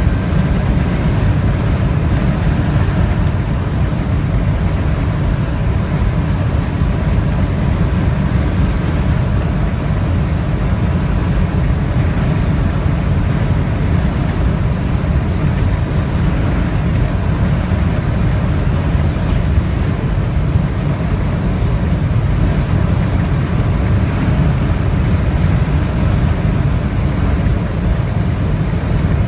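Snowstorm wind blowing hard against the microphone: a loud, steady low rumble.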